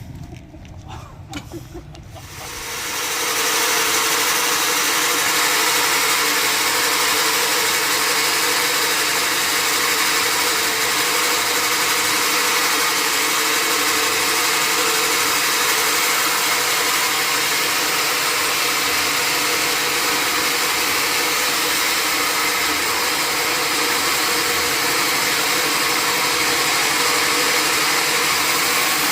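Sawmill saw cutting through timber: a loud, steady hiss and whine that rises in about two and a half seconds in and then holds level, after a quieter start with a low rumble and a few knocks.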